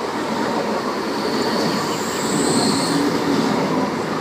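Tangara electric train running past: steady rolling noise of wheels on rail, with a faint high whine about two to three seconds in.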